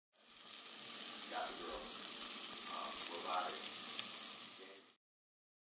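White fish fillets and diced onion sizzling in a frying pan, with a spatula stirring the pan a few times. The sizzle stops abruptly near the end.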